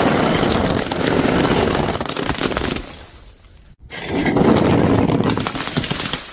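Two long bouts of crunching and crackling as brittle things break. Each starts abruptly and tails off over about three seconds.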